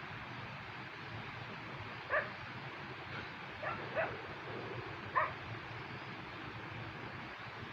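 Four short calls from an animal, each brief and sharp, spread over a few seconds against a steady background hiss.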